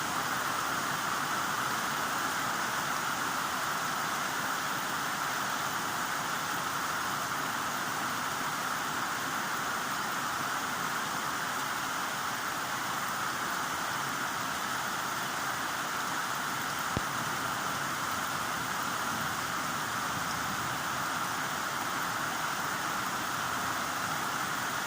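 Heavy rainfall as a steady, even hiss, with one faint click about two-thirds of the way through.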